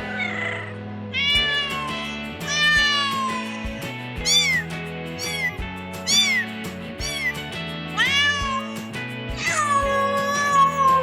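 Domestic cat meowing repeatedly, about eight meows roughly a second apart, ending in one longer drawn-out meow near the end, over background music with a steady beat.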